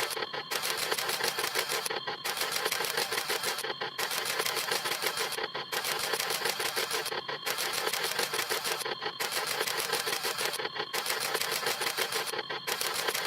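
Camera shutter snap sound effect, repeated rapidly many times a second in an overlapping stream, with a brief break about every two seconds.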